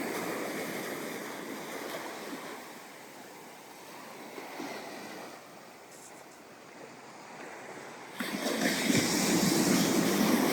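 Ocean surf on a sandy beach: the wash of one wave dies away over the first few seconds, then a new wave breaks suddenly about eight seconds in and its surf stays loud.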